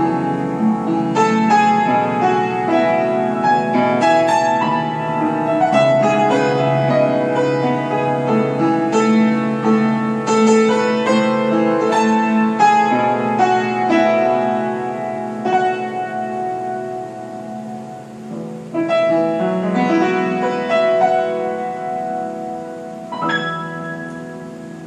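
Solo piano playing a slow, melodic piece, growing gradually softer and ending on a final struck chord about 23 seconds in that is left to ring out.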